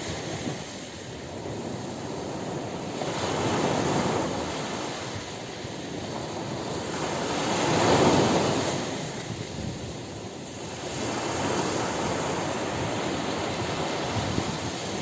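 Ocean surf washing onto a beach, waves breaking and receding in slow swells, the loudest crash about eight seconds in.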